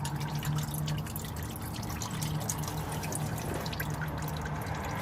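Used engine oil streaming from a 2002 Chevy Tahoe's oil pan drain hole and splattering into a drain pan, a steady trickling pour, with a steady low hum underneath.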